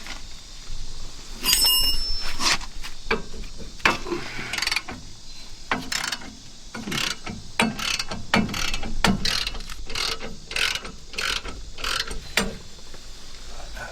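Ratchet wrench clicking in short back-and-forth strokes as bolts on the truck's rear brake assembly are worked loose. About a second and a half in, a piece of metal clinks and rings briefly.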